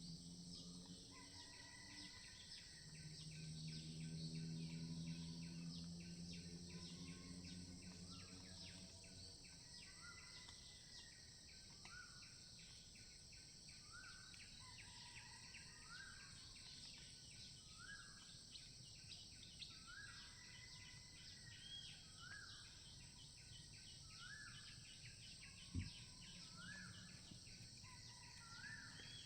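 Faint forest insect chorus: a steady high buzz and fast pulsing chirring, joined in the second half by a short rising call repeated roughly every second and a half. A low droning hum sits under the first third, and there is one sharp click near the end.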